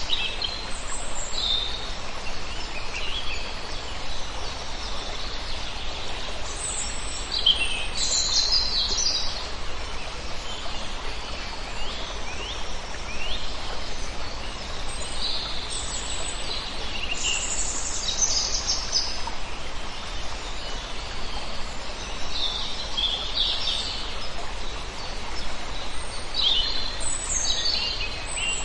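A large flock of birds calling: many short, high chirps and twitters overlapping throughout, over a steady background hiss.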